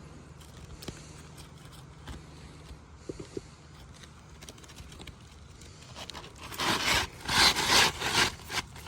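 Several rough scraping strokes of a laminated asphalt shingle being worked on the roof, starting about six seconds in and ending near the end.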